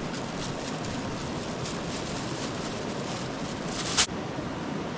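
Steady rushing noise of a campfire burning, with a few faint crackles. One sharp, loud snap about four seconds in.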